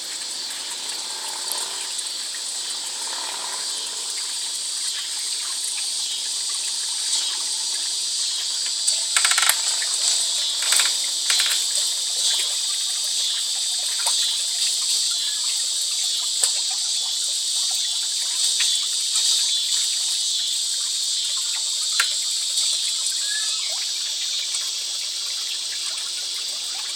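Steady high-pitched insect chorus, like crickets or cicadas, with a few short sharp clicks or knocks clustered about a third of the way in.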